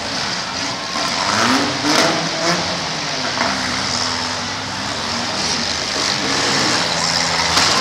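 Demolition-derby car engines revving, their pitch rising and falling repeatedly, over a steady hubbub from the crowd in the grandstand.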